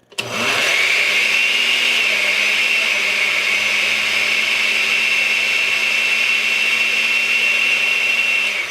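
Electric blender switched on with a click, quickly spinning up and running at a steady whine as it blends softened ice cream and milk into a shake. It is switched off near the end and its motor spins down.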